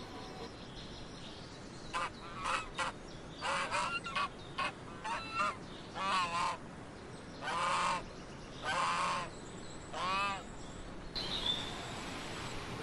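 White domestic goose honking, about a dozen honks: short ones at first, then longer ones, some with a wavering pitch.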